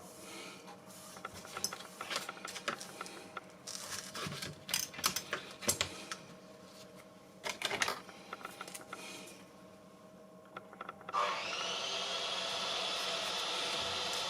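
Irregular clicks and scraping of hand work on a workbench. About eleven seconds in, a steady machine noise starts up suddenly and keeps running.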